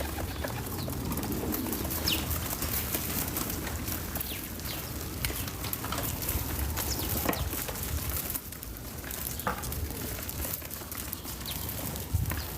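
Outdoor backyard ambience: scattered short bird calls over a steady low rumble and hiss.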